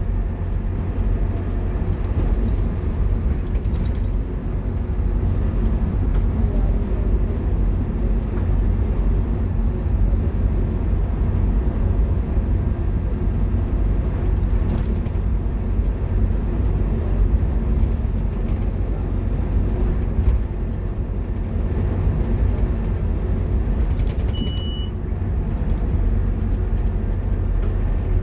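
Scania K230UB Omnilink bus's five-cylinder diesel engine running steadily under way, with road noise. A brief high beep sounds about 24 seconds in.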